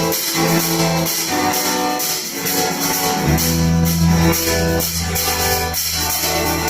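Instrumental intro of a Russian rock song played by a band: guitars over a steady, even beat of high percussion. A low bass note comes in about three seconds in.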